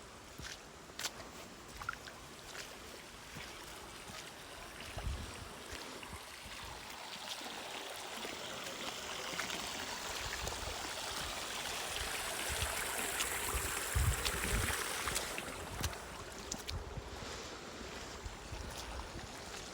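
Running water of a stream, an even rushing hiss that grows louder toward the middle and eases off again near the end, with scattered small clicks and a few low thumps.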